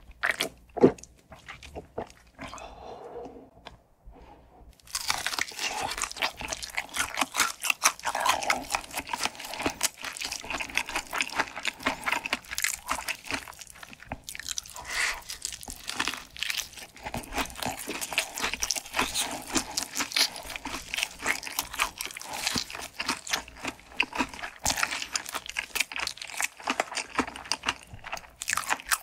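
Close-miked crunching and chewing of crispy fried food, dense rapid crackles of the batter breaking between the teeth. It starts in earnest about five seconds in after a few quieter bites.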